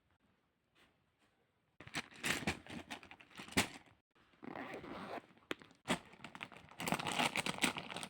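Three bursts of crinkling, crackling rustle, as of a crinkly material being crumpled and handled.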